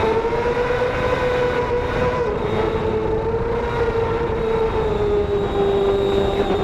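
Racing motorcycle engine held at high revs. Its note rises slightly and eases back down over several seconds, with no gear change.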